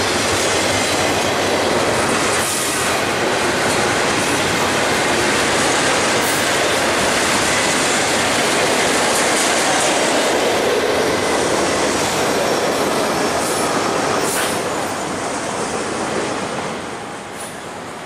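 Double-stack intermodal freight train passing close by: a loud steady rumble and clatter of steel wheels on rail, with a few brief high-pitched sounds along the way. The level drops near the end.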